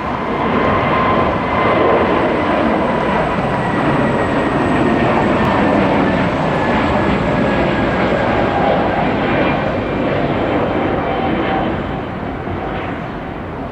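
Jet aircraft passing on departure with its engines at takeoff power: a loud, steady rush carrying a whine that slowly falls in pitch. It fades near the end.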